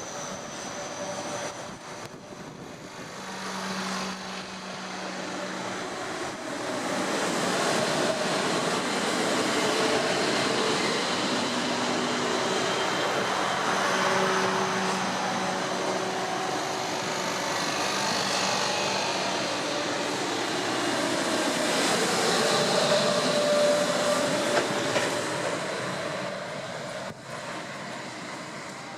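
A train passing through the station. Its rolling noise builds from about six seconds in and eases near the end, with steady humming tones over it.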